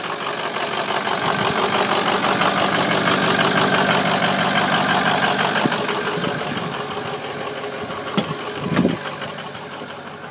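Ford 6.0 Powerstroke V8 turbodiesel idling just after starting, growing louder for a few seconds and then easing off; the owner suspects a bad injector or two. Two brief knocks sound late on.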